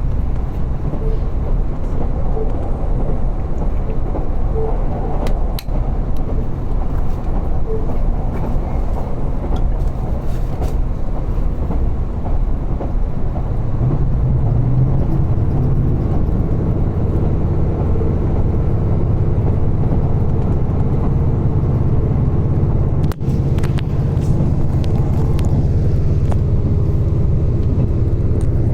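Diesel railcar running, heard from inside the passenger cabin: a steady low rumble of engine and wheels on rail that grows louder about halfway through.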